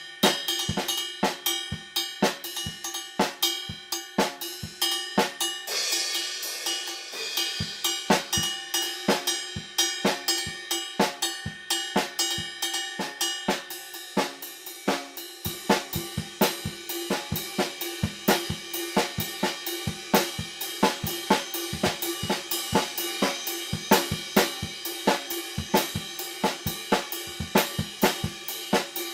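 Acoustic drum kit played in a loose, free groove: snare, bass drum, hi-hat and cymbals struck continuously, with a cymbal wash swelling about six seconds in. Heard through a stereo overhead microphone pair about two metres from the kit, with no processing.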